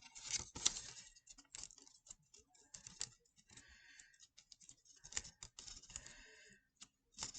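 A square sheet of origami paper being folded and creased by hand: faint, irregular crinkles, taps and brief rustles.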